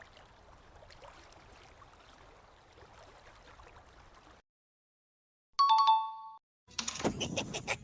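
Faint trickling water, then a short gap, then a loud two-note chime falling from a higher to a lower note, like a doorbell ding. Just after it, a rapid run of evenly spaced pulses starts, a comic cartoon-style effect.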